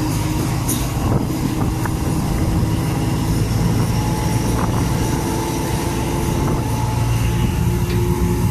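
A moving passenger train's steady running noise, heard at an open carriage doorway: a low rumble of wheels on the rails with a steady drone.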